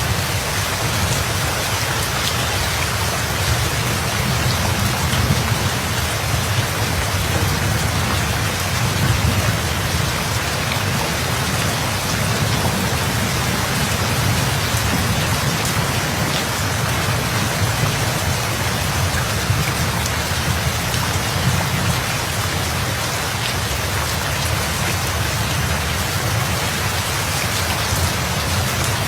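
Steady rain falling, with a low continuous rumble of thunder underneath that swells a little a few seconds in.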